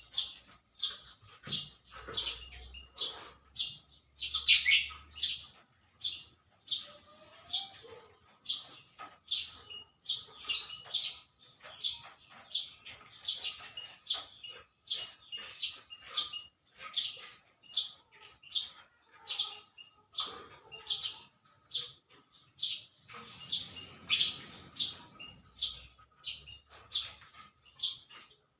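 Small bird chirping over and over, short high chirps at a little under two a second.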